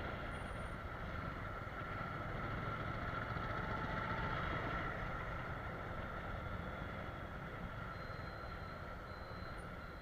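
Motorcycle riding along: the engine running steadily with road and wind noise, picked up by a camera on the rider's helmet.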